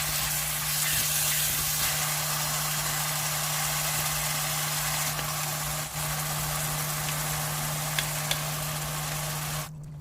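Food frying in a pan, sizzling steadily with a few faint pops over a steady low hum; the sizzle cuts off abruptly just before the end.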